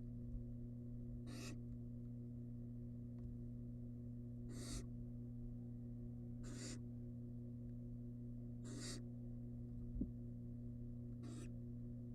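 Barn owl nestling's begging calls: five short, hissing screeches about two seconds apart, over a steady electrical hum. There is a faint knock near the end.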